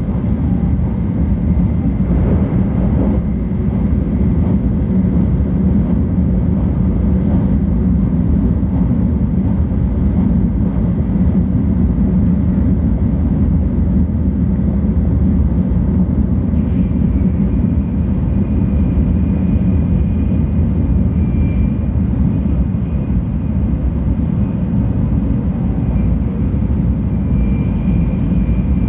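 Cabin noise of a 700 series Shinkansen running at speed: a steady low rumble, with a faint high whine coming and going over the second half.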